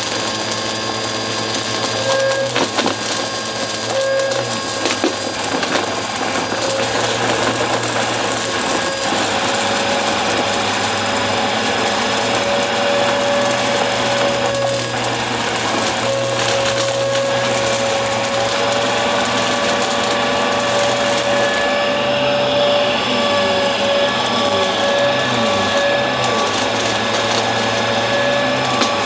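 Upright vacuum cleaner running with a steady motor whine, its brushroll sucking up crunchy debris that crackles and clicks as it is picked up.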